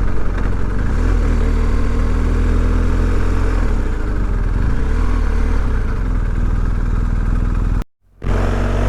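BMW R1250GS boxer-twin motorcycle engine idling steadily. The sound cuts out for a moment near the end.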